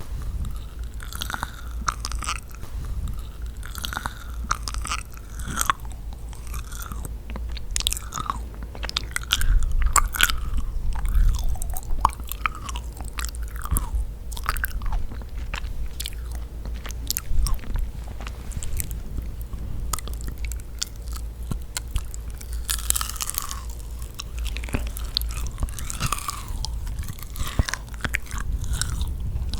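Close-miked eating of yakgwa, a chewy, sticky Korean honey cookie: bites followed by steady wet chewing and sticky mouth clicks, irregular and continuous.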